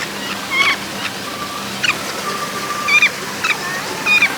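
Birds chirping: about five short, sharp chirps, with two longer thin, steady whistles between them.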